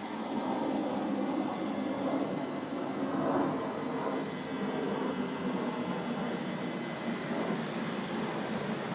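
Steady, even motor and airflow noise from the iRobot Roomba Combo i5+ robot vacuum system running, with no break.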